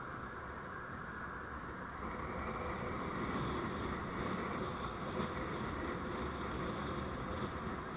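Vehicle under way on the road: steady engine and road noise that grows a little louder about two seconds in.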